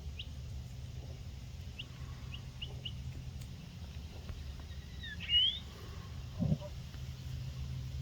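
Wild birds calling: a few short high chirps in the first three seconds, then a louder call with a rising whistle a little past five seconds in. A low thump sounds about six and a half seconds in, over a steady low rumble.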